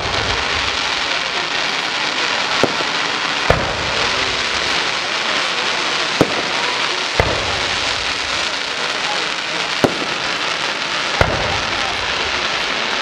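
Aerial firework shells bursting: about six sharp bangs a second or two apart, over a continuous dense crackle from the falling gold effects.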